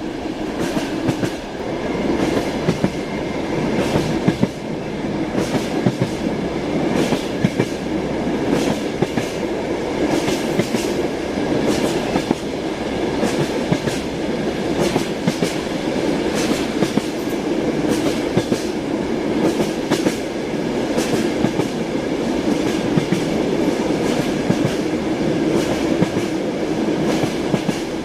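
Train wheels clattering over rail joints: a steady rumble with frequent sharp clicks at an uneven pace, several a second.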